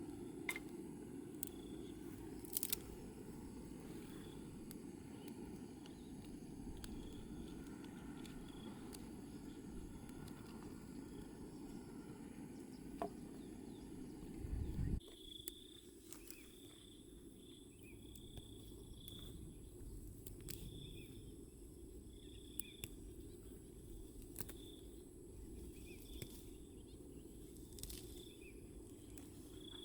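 Quiet outdoor ambience: a faint steady low rumble with scattered small clicks. From about halfway, a faint high chirp repeats about once a second.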